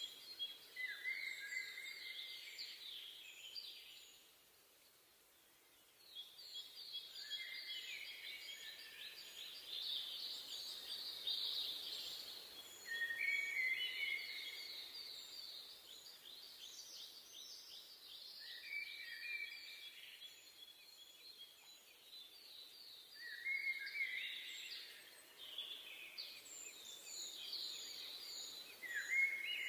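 Forest birds singing, several songs overlapping: fast trills and a run of short high notes repeated over and over, with a brief lull about four seconds in.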